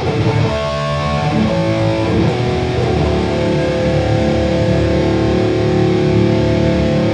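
Electric guitar played through a Boss Katana Gen 3 2x12 combo amp with the contour EQ off, bass at 40, mids at 65 and treble all the way down. A few notes change over the first two seconds, then a chord is left ringing.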